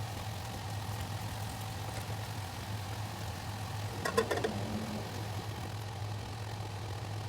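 A steady low mechanical hum while cooking at the stove, with a brief metallic clatter of a few quick strikes about four seconds in, as metal knocks against the wok.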